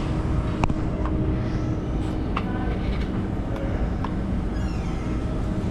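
A steady low mechanical hum and rumble with a few scattered light clicks and taps.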